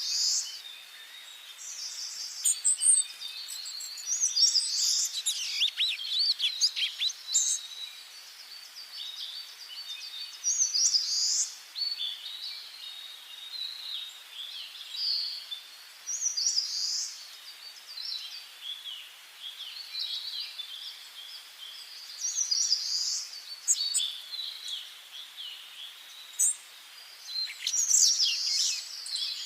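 Several songbirds singing, with short bright phrases and chirps coming every second or two over a faint steady hiss.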